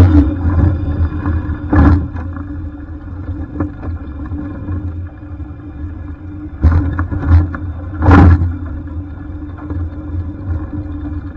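Jet boat engine running steadily with a deep hum, broken by three brief louder surges: one about two seconds in and two close together near seven and eight seconds.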